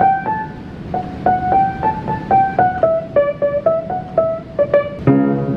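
Piano notes picked out one at a time as a simple melody, about two to three a second, then a full chord struck about five seconds in.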